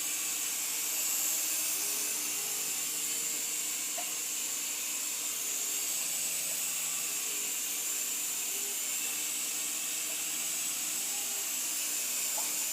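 Protocol Tiger Jet 3.5-channel toy RC helicopter hovering: its small electric motors and spinning rotor blades give a steady, high-pitched whir.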